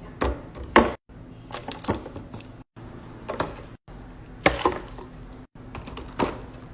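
Short clicks and knocks of containers and food items being handled and set down during fridge organizing, several sharp taps a second. The sound drops out briefly about every second or so, where quick clips are cut together.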